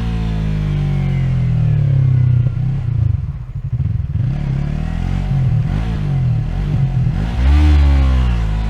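Yamaha MT-03's 321 cc parallel-twin engine heard from on the bike as the revs fall off through the first few seconds and run rough at low revs. The revs then climb again, with a sharp blip of throttle near the end.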